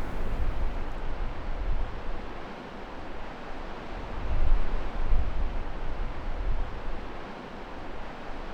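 Wind buffeting the microphone outdoors: a steady rushing noise with low, gusting rumbles that swell and ease every few seconds.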